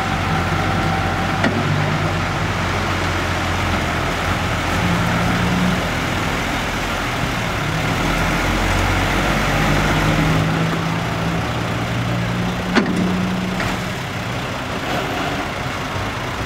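Six-wheel dump truck's diesel engine running at low speed, its pitch shifting slightly now and then, with one sharp click about 13 seconds in.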